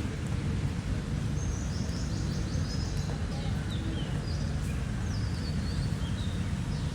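Birds calling over a steady low outdoor rumble: a rapid high trill starts about a second and a half in, followed by a run of short chirps and down-slurred notes.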